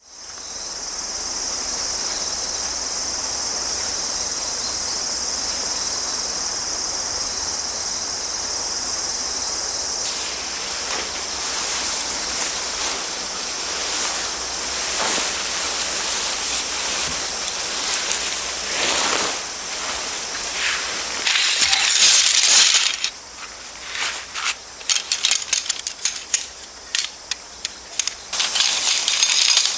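Autumn crickets chirping as a steady high-pitched chorus over the hiss of a running creek. From about twenty seconds in, a run of sharp clicks and clinks takes over and becomes the loudest sound.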